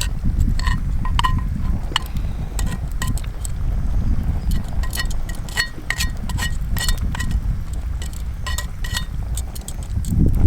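Metal clinking: many light, irregular clinks of utensils against a metal cooking pot, several ringing briefly at a clear pitch, over a steady low rumble.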